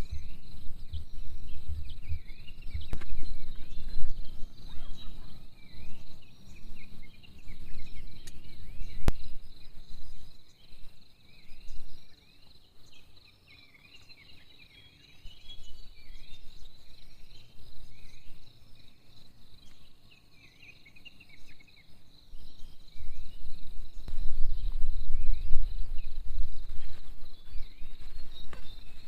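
A steady high insect trill of crickets or cicadas runs on, with many short chirping calls from other creatures through the middle stretch. Loud low rumbling comes and goes during the first third and again near the end.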